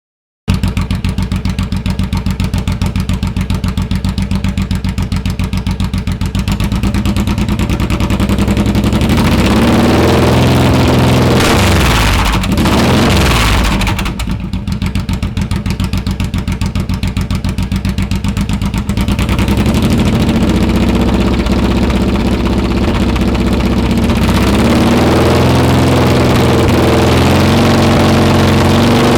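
Suzuki C109R motorcycle's 1783 cc V-twin idling with a steady beat, revved up and back down once about halfway through, with a smaller blip later.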